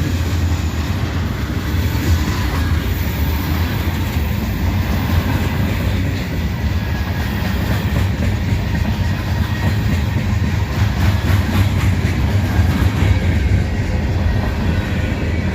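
Freight train rolling past: a loud, steady rumble and rattle of cars on the rails that holds the whole time without a break.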